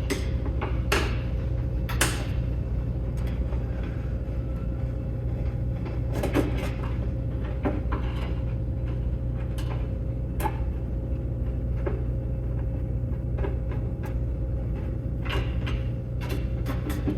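Scattered light clicks and knocks of screws and sheet-metal panels being handled while a plasma cutter's casing is taken apart, over a steady low hum.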